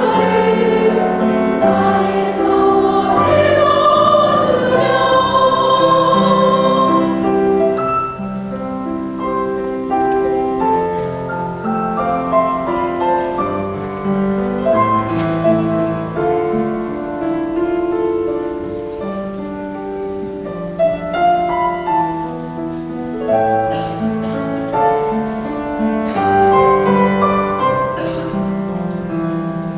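Temple choir singing a Buddhist hymn in parts, with piano accompaniment. Loud for the first seven seconds or so, then softer.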